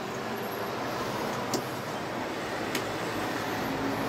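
Steady whirring hum of the small electric motors and running gear of an HO-scale model railroad layout, with a couple of faint clicks.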